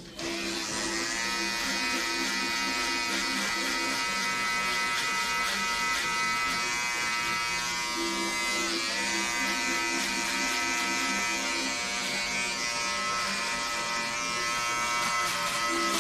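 Electric hair clippers running with a steady buzz, the pitch dipping briefly about halfway through.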